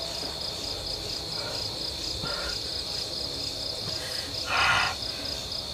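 Crickets chirring steadily in a fast, even pulse, with a short hissing noise about four and a half seconds in.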